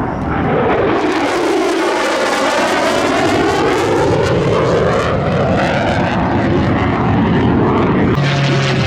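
F-35 fighter jet flying past, its engine a loud, unpitched rushing noise that swells and sweeps in pitch as it passes. Near the end the sound cuts abruptly to a steadier aircraft engine drone with a few distinct tones.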